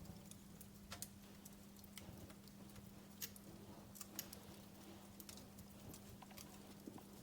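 Wood fire crackling faintly, with irregular sharp pops and snaps, the clearest about a second in and a few around three to four seconds in, over a low steady hum.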